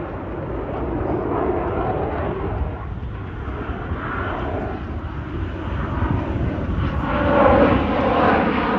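Airplane engine noise from an aircraft flying past, a steady rushing sound with a slowly shifting tone that grows louder about seven seconds in.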